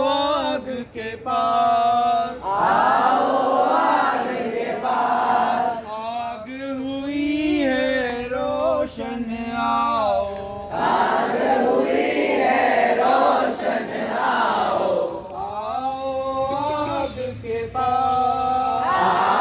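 A group singing a Hindi campfire song together in phrases, with short breaths between the lines.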